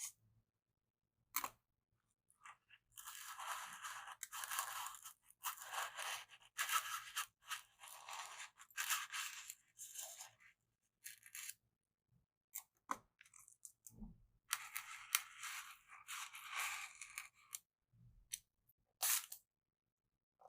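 Bamboo stick scraping and poking right at a microphone: crackly scratching and crunching in stretches of one to a few seconds, with a few single sharp taps between them and dead silence in the gaps.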